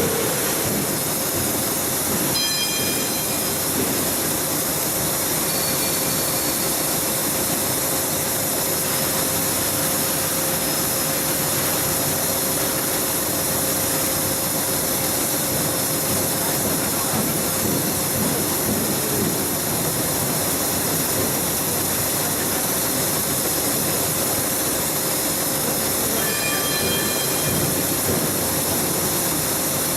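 Heavy-duty industrial pattern sewing machine running steadily, with a constant mechanical hum and hiss and a steady whine. Brief high squeals come about two seconds in and again near the end.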